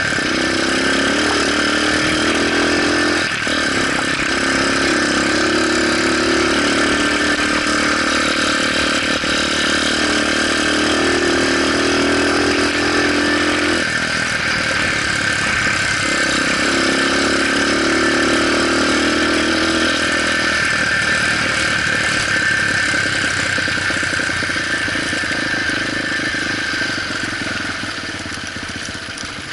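Motorcycle engine running steadily, its note changing and dropping away a few times.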